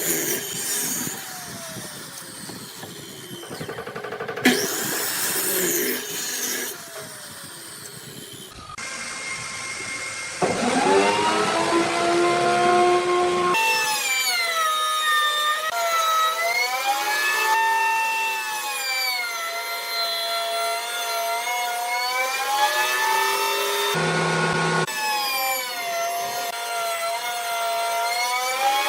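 Power woodworking tools cutting and working wood, in short clips that change abruptly. From about ten seconds in, a motor's whine repeatedly dips and rises in pitch as the tool bears on the wood.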